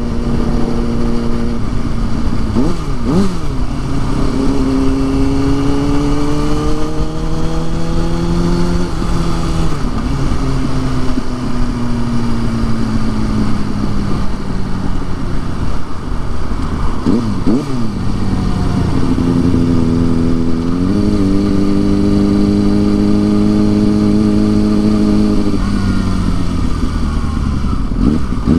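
Motorcycle engine under way, its pitch climbing and falling as the rider accelerates and then slows, with quick throttle blips about 3 seconds in, around 17 seconds, and at the very end, typical of downshifting. There is a steady rush of wind noise throughout.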